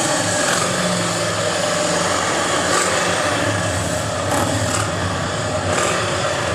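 Harley-Davidson motorcycle engines running steadily, mixed with general outdoor noise.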